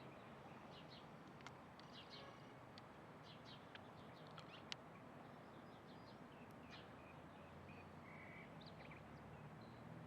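Faint chirps and short calls of several small birds, scattered and overlapping, over a low steady background hum, with one sharp click about halfway through.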